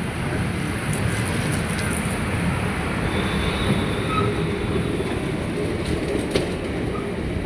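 Train running: a steady rumble and rattle of the coaches, with a faint high squeal about three seconds in and a few sharp clicks near the end.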